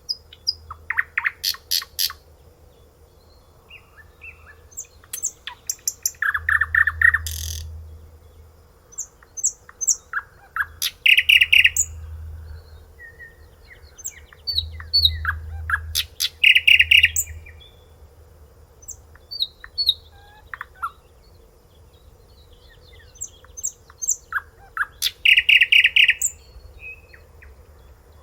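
A songbird singing in bouts of rapid repeated notes, each bout a couple of seconds long with pauses of a few seconds between them, over a faint steady hum.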